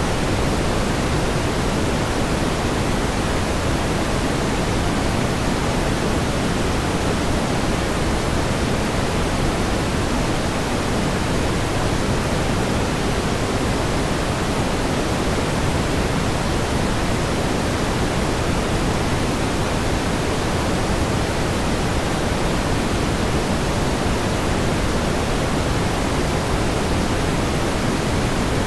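Steady pink noise: an even, unchanging hiss, fuller in the low end than white noise.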